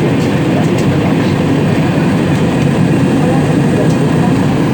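Steady, loud roar of an airliner cabin in flight: jet engine and airflow noise, with a few faint ticks.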